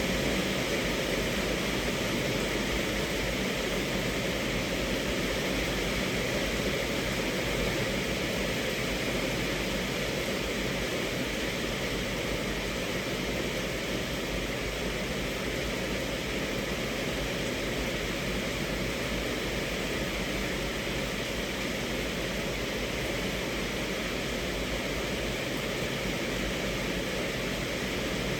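Rain falling steadily on a car's roof and windows, heard from inside the cabin as an even hiss.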